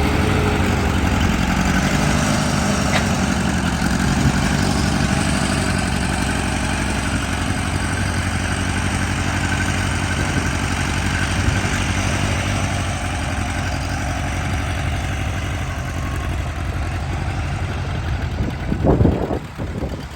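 1939 Farmall Model A tractor's four-cylinder engine running steadily at idle, with a brief louder, uneven surge near the end.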